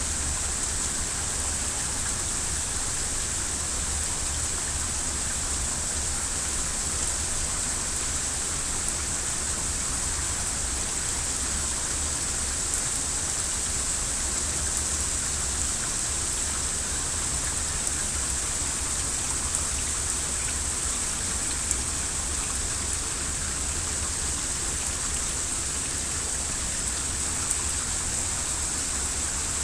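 Steady heavy rain falling, an even hiss with now and then a louder drop tick.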